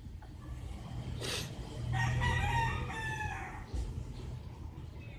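A rooster crows once, a long call about two seconds in that drops in pitch at its end, after a brief scrape about a second in.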